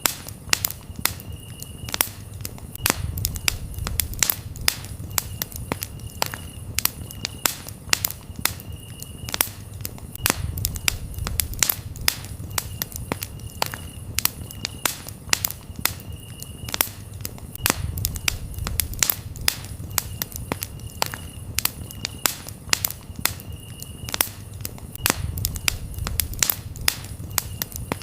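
Campfire burning with dense, sharp crackles and pops over a low rumble of the flames that swells every few seconds. Crickets chirp in short repeated trills.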